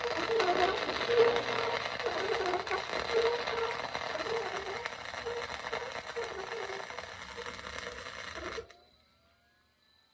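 Flux-core wire-feed welder arc crackling steadily through one continuous weld bead, then cutting off suddenly about eight and a half seconds in as the trigger is released.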